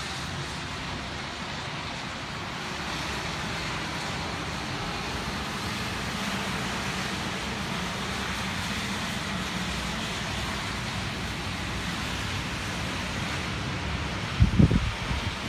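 Steady rushing of typhoon wind. Near the end, a few loud gusts buffet the microphone with low thumps.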